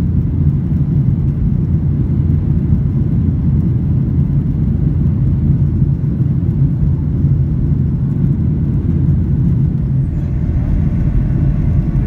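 Airplane engines and airflow making a steady low rumble as the plane climbs after takeoff.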